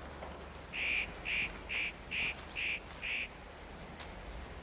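A bird calling six times in an even series, short calls about half a second apart.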